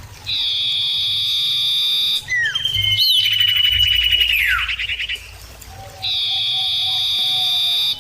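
Common iora giving long, drawn-out whistles, each held steady for about two seconds. The middle whistle ends in a steep downward slide, and the calls are clear and loud.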